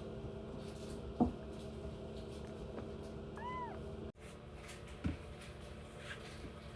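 A kitten gives one short mew that rises and falls in pitch, a little past three seconds in, with a couple of soft thumps and a steady low hum beneath.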